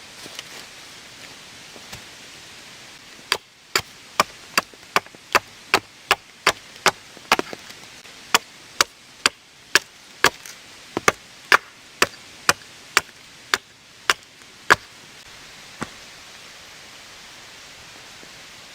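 A hand tool chopping wood with a steady run of sharp strikes, about two a second, starting a few seconds in and stopping near the end, with a short pause midway and one last strike after. Steady rain hiss runs underneath.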